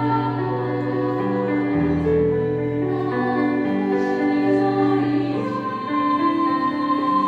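Choir singing a Korean choral song in parts, holding long chords that change every second or so.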